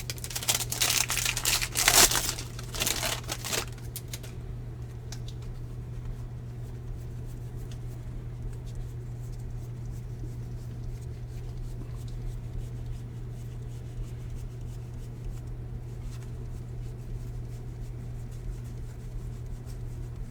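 A foil card pack wrapper torn open and crinkled for about four seconds, then a steady low hum with faint scattered clicks.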